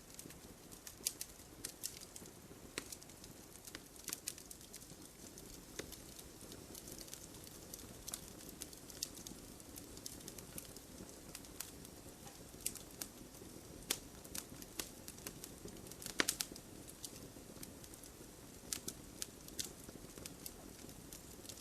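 Wood fire crackling in a fireplace: irregular pops and snaps over a soft steady hiss, with a louder cluster of pops about sixteen seconds in.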